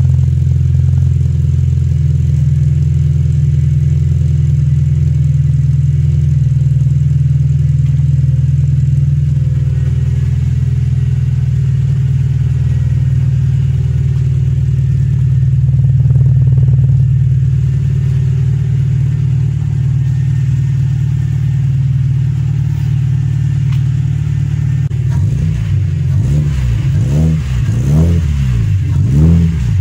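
VW Polo Playa 6N2's 1.4 four-cylinder petrol engine idling steadily, heard at the exhaust tailpipe, then revved a few times in quick succession near the end, the pitch rising and falling with each blip.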